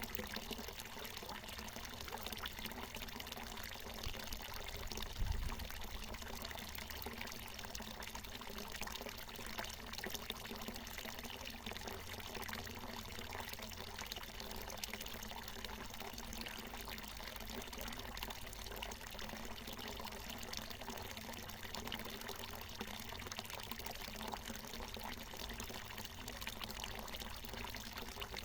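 Water pouring steadily from a natural mountain spring, a continuous trickling splash. A brief low thump comes about five seconds in.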